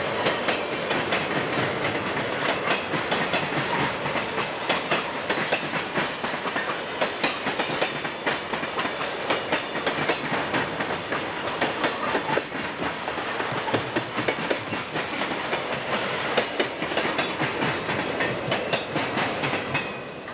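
Freight train of boxcars and tank cars rolling past close by, its wheels clacking over the rail joints in a fast, uneven stream of clicks over a steady running noise. The sound drops away sharply right at the end.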